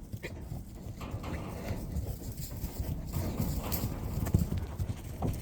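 Hoofbeats of a herd of horses galloping, a dense run of thuds that grows louder toward the middle and eases near the end.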